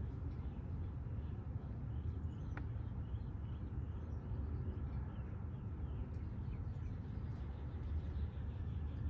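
Birds chirping faintly over a steady low rumble, with one sharp click about two and a half seconds in.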